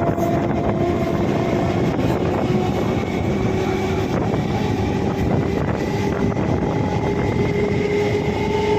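Electric multiple-unit (EMU) local train running, a steady rumble and rush with a motor whine that slowly rises in pitch as the train gathers speed.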